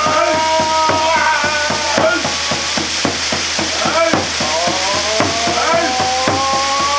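Waterfall water pouring and splashing, with irregular sharp splashes. A long, steadily held chanting tone runs over it and slowly rises in pitch.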